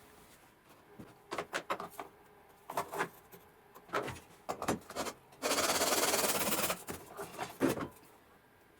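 Crafting materials being handled: scattered taps and rustles, then a dense scraping or hissing noise lasting about a second and a half past the middle, followed by a couple more taps.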